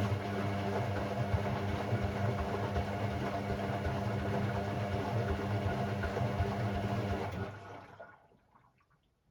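Hoover Sportswear 1300 washing machine moving water: a rushing, hissing flow over a steady electric hum, which stops about seven and a half seconds in.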